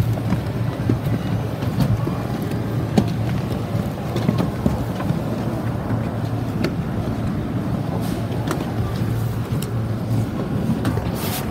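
JR Sōbu Line commuter train running, heard from inside a packed carriage: a steady low rumble with scattered short clicks and knocks, and clothing rubbing against the microphone.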